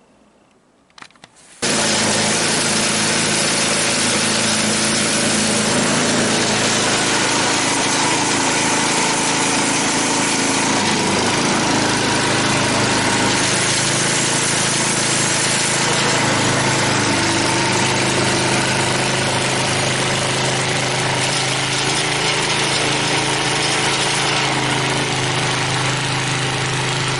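Gas snowblower engine running steadily as it clears light, fluffy snow. It starts abruptly about two seconds in after a short quiet moment.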